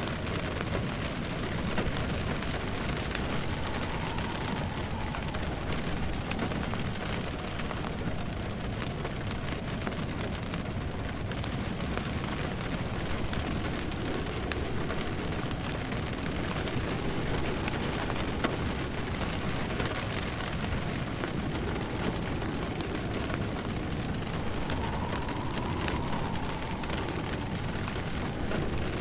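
Steady rain falling on surfaces, making an even hiss, with a fireplace's wood fire crackling lightly underneath.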